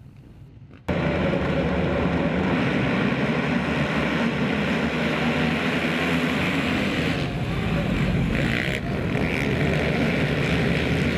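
Motocross motorcycles racing together, a dense engine din that cuts in abruptly about a second in and holds steady.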